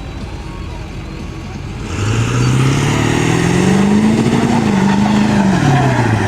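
Truck engine revving loudly over a steady background rumble. The pitch climbs for about two seconds, holds high, then drops back down.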